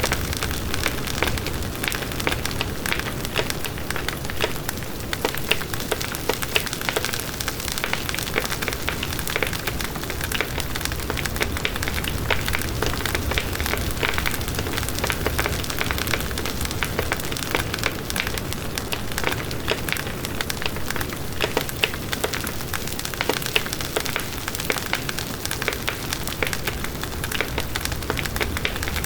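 Campfire burning: a steady hiss with frequent sharp crackles and pops of burning wood.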